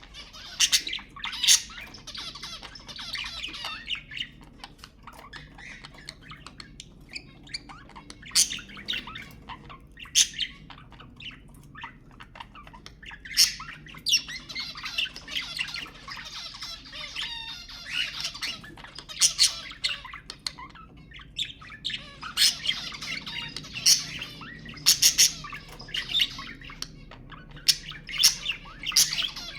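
A group of budgerigars chattering and warbling continuously, with many sharp, high squawks scattered throughout.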